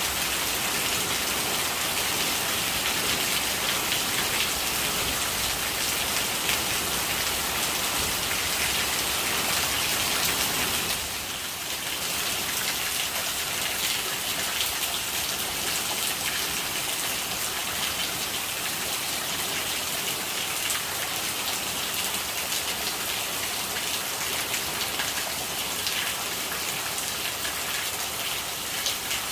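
Steady rain falling, an even dense hiss of drops, with a brief dip in level about eleven seconds in.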